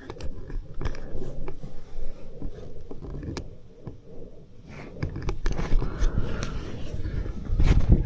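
Close rustling and handling noise with scattered clicks and knocks, in a small enclosed space; it grows louder near the end.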